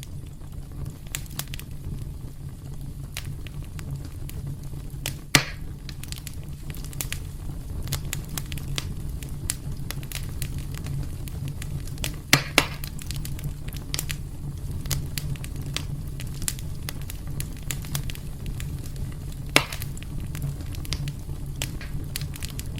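Wood fire burning in a fireplace: a steady low rumble of flames under a constant scatter of small crackles, with three louder pops about five, twelve and twenty seconds in.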